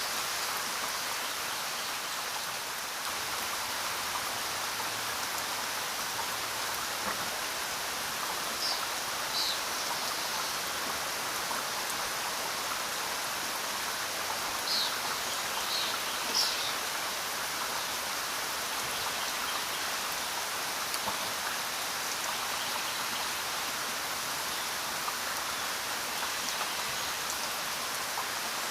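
Steady rainfall: an even hiss of rain with drops pattering on surfaces. A few short, high chirps come through the rain in the middle stretch.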